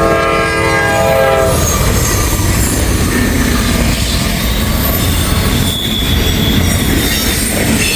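Norfolk Southern freight locomotive's chord horn sounding several notes at once and cutting off about a second and a half in. Then the loud, steady rush of the train passing at speed, with a brief high wheel squeal about six seconds in.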